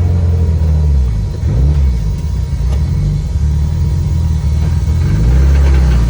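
Built Subaru Impreza's flat-four engine heard from inside the gutted, caged cabin, its note falling and rising as the revs change, loudest near the end.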